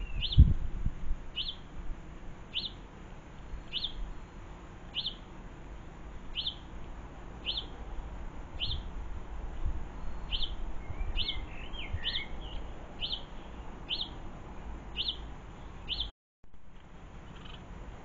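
A small garden bird repeating a short, high, down-slurred call note about once a second, a little quicker around the middle, with a brief softer twitter alongside. A low thump sounds just after the start, and the sound cuts out briefly near the end.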